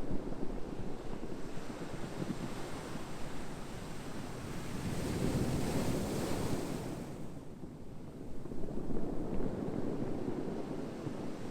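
Ocean surf: a steady rush of waves, with one wave surging and washing in about halfway through and another smaller swell near the end.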